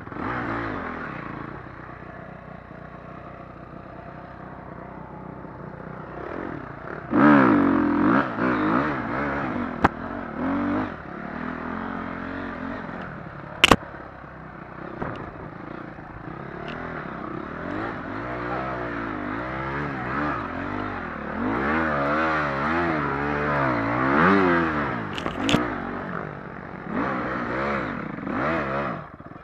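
Motocross dirt bike engines revving up and down as bikes ride the track, loudest about seven seconds in and again for several seconds past the twenty-second mark, with a single sharp crack about fourteen seconds in.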